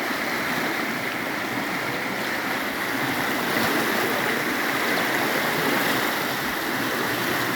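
A river swollen with floodwater after heavy rain, its water rushing steadily.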